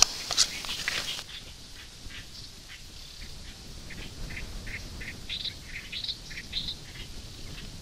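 Small birds chirping: many short, high chirps scattered irregularly, over a faint steady outdoor background. A brief rustle with a click comes in the first second.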